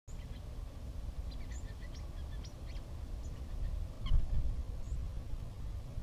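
Small birds giving a quick series of short, high chirps, then a single call with a low thump just after it about four seconds in, over a steady low rumble.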